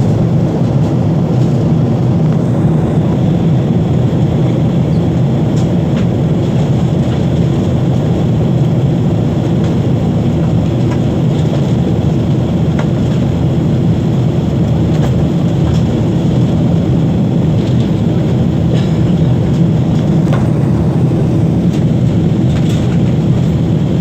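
Boeing 777-300ER's steady low roar of engines and airflow as heard inside the cabin, with a few faint ticks.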